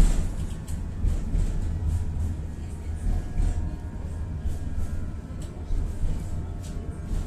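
Tatra-Yug K1M tram running, heard from inside: a steady low rumble with faint whining tones and sharp clicks and rattles now and then.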